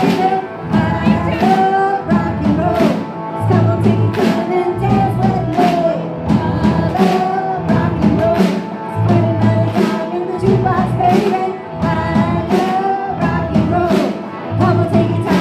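Live rock band playing: drum kit keeping a steady beat under bass and electric guitar, with a sung melody over the top.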